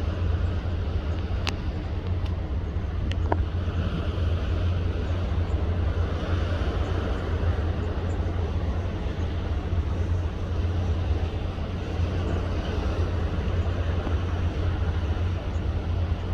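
Steady low rumble under an even rushing noise aboard a ship at sea, with a few faint clicks.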